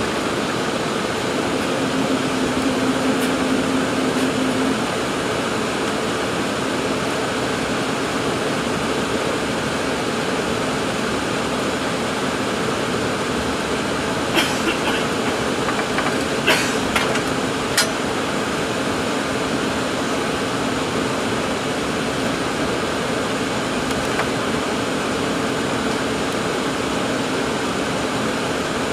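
Steady hum and rush inside the cabin of an Embraer 195-E2 airliner, with a few sharp clicks or knocks about halfway through.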